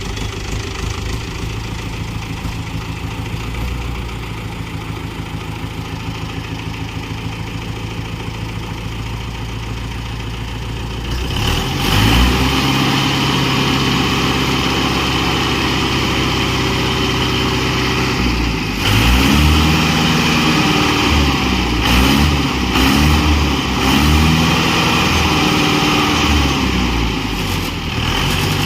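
Mahindra tractor's diesel engine running steadily at idle, then speeding up about eleven seconds in, and revving up and down several times in quick succession near the end.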